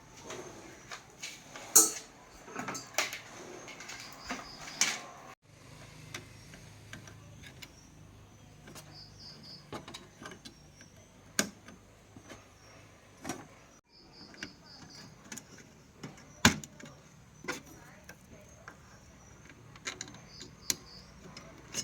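Scattered clicks and knocks, with three brief runs of short high-pitched beeps.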